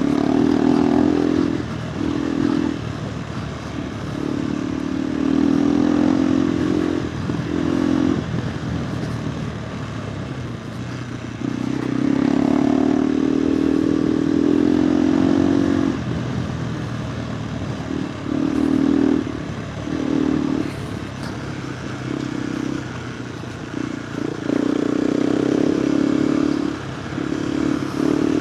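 KTM 390 Adventure R's single-cylinder engine through a Norifumi Whoops stainless slip-on exhaust, ridden with the throttle opened and closed in bursts of a few seconds each, about six times, the exhaust note swelling on each opening and dropping back in between.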